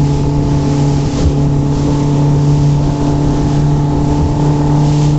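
Motorboat engine running steadily at a constant speed, a loud, even hum.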